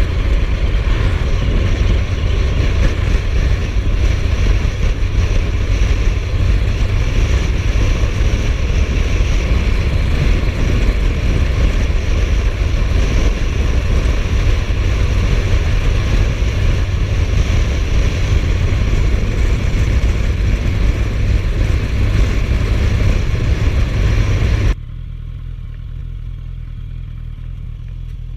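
Riding on a Suzuki GSF1250S Bandit motorcycle: a steady loud wind rush mixed with the engine's low drone. Near the end it drops suddenly to a much quieter, steady low hum.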